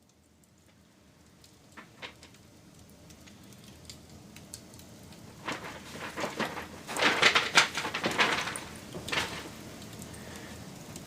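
Wood fire crackling and popping: scattered pops, then a dense run of loud crackles in the middle.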